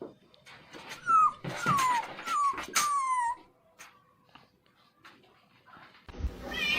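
A dog whimpering: four short, high-pitched whines, each sliding down in pitch, in quick succession. A louder, different sound cuts in near the end.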